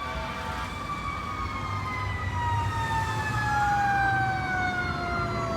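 Fire apparatus siren wailing, its pitch sliding slowly down, with a second siren tone rising and falling over it midway; a low engine rumble runs beneath.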